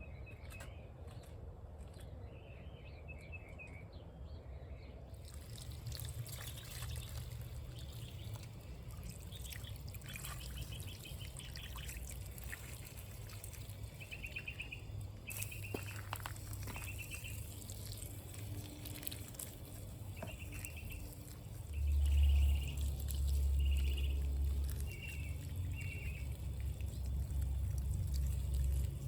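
Water pouring and trickling from watering the garden, with small birds chirping in short repeated trills. A louder low rumble comes in about three-quarters of the way through.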